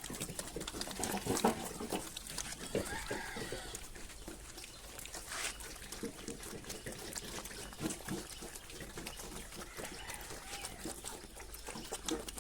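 Pigs feeding, with irregular wet chomping and slurping from their food and a few short grunts.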